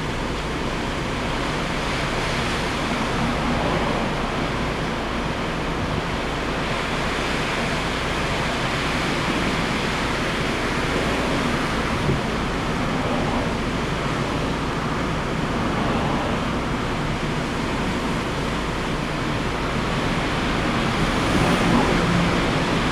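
Steady rushing noise of typhoon wind and sea surf, swelling slightly near the end.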